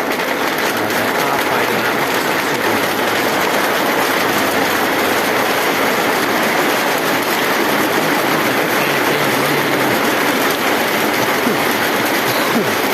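Heavy rain falling: a steady, loud, even hiss.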